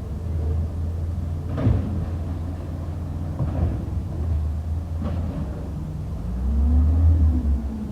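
Garbage truck's diesel engine running steadily, with several clanks and knocks, and the engine rising and falling in pitch briefly near the end.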